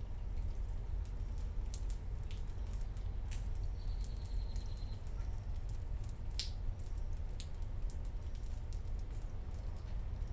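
Rain during a thunderstorm: scattered drops ticking and dripping close by over a steady low rumble. A faint short high note sounds about four seconds in.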